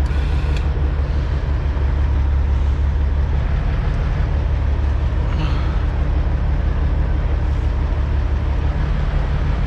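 Semi-truck diesel engine running steadily at low speed, a constant low rumble heard from inside the cab.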